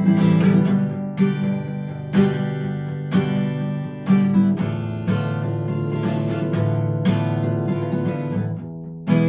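Six-string acoustic guitar strummed in a steady rhythm, chords ringing between the strokes, with a brief lull just before the end.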